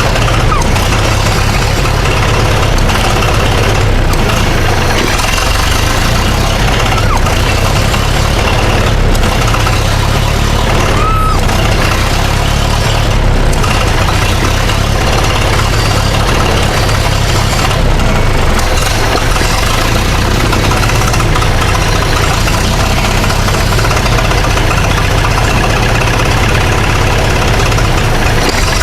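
Massey Ferguson 65 tractor's four-cylinder gasoline engine running at a steady idle. It doesn't sound right, which the owners put down to a carburettor that is still semi-clogged.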